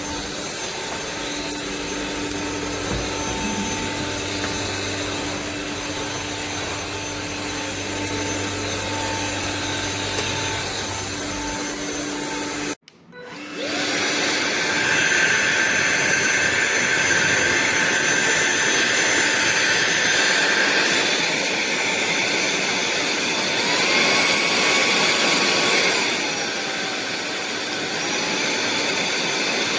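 Sulean X8 cordless stick vacuum running steadily. It cuts out abruptly about 13 seconds in, then runs again louder and with a higher whine, its pitch shifting briefly a few seconds before the end.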